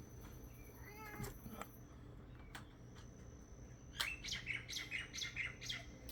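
A cat meows once, briefly, about a second in. Near the end a bird calls in a quick run of short, high chirps, the loudest sound here.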